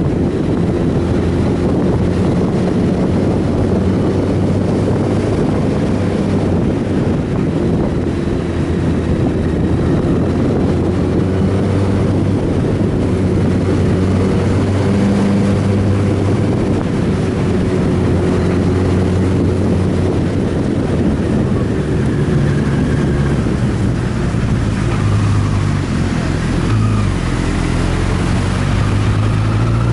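Motorcycle engine running at a steady speed under heavy wind noise on the microphone; near the end its pitch rises as it accelerates.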